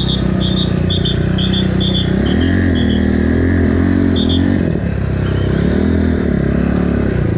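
Supermotard motorcycle engine heard on board while riding, its revs rising and falling repeatedly through the gears. Short high-pitched blips repeat every fraction of a second in the first three seconds and once more about four seconds in.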